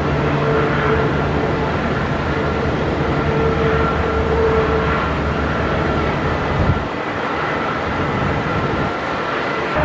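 Jet aircraft engine noise: a steady roar with a thin, constant whine over it. The low rumble falls away after a short thump about seven seconds in.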